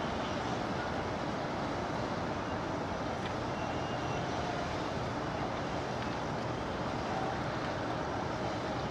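Steady waterfront background noise: an even rumble with no distinct events.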